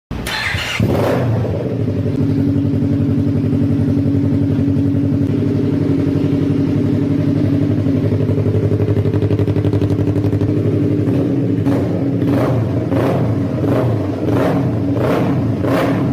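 Yamaha R3 parallel-twin engine through an aftermarket exhaust, running steadily. From about twelve seconds in, the throttle is blipped repeatedly, nearly twice a second.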